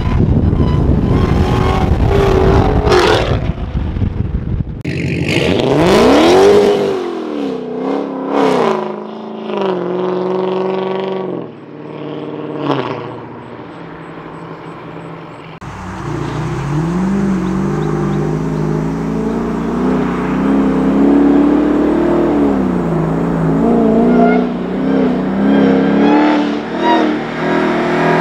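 Swapped 6.2-litre supercharged Hellcat Redeye V8 in a Hyundai Genesis Coupe running hard on the road, its revs climbing and dropping again and again as the car accelerates and shifts. The sound jumps abruptly twice where separate runs are joined.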